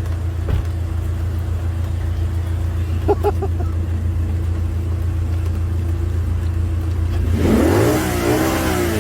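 Steady low road and engine rumble from a car, heard from a dashcam. About seven and a half seconds in, a vehicle engine loudly revs up, its pitch rising and wavering.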